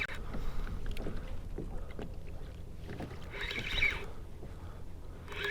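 Water sloshing against a kayak hull, with wind rumbling on the microphone and a brief hissing rush about three and a half seconds in.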